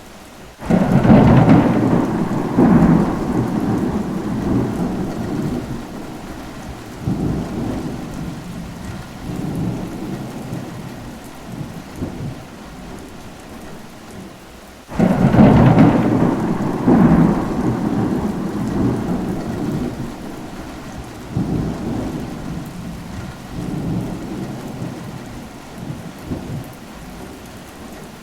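Steady rain with thunder rolling in twice, once about a second in and again about halfway through. Each peal starts suddenly and rumbles on in waves for several seconds before fading back into the rain.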